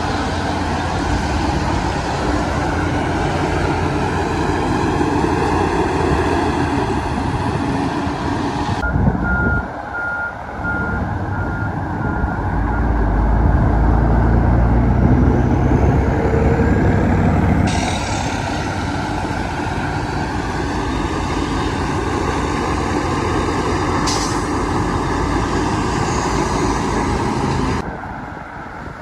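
Heavy diesel earthmoving machinery, bulldozer and dump truck engines, running and working. A reversing alarm beeps about five times, starting about nine seconds in. The deep engine rumble is at its heaviest in the middle.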